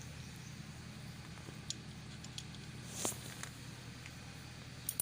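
Quiet steady low hum with a few faint, scattered light clicks and taps, the clearest about three seconds in.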